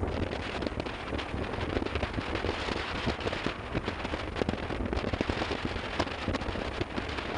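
Wind rushing over the microphone of a moving motorcycle, with dense crackling and rumble from the ride.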